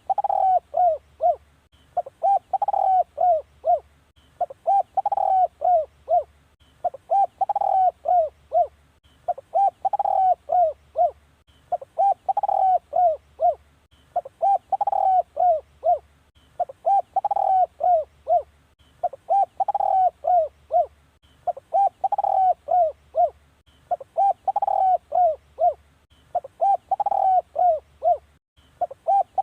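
Spotted dove cooing: a phrase of several short, falling coo notes, repeated over and over about every two and a half seconds.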